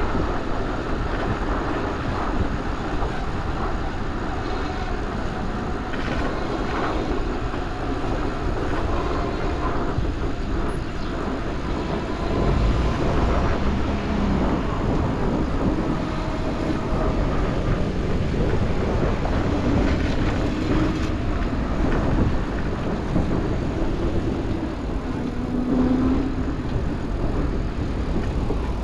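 Steady city street traffic heard from a moving bicycle: a continuous rumble of passing vehicles with a heavy low-end rush, and a few short low tones in the second half.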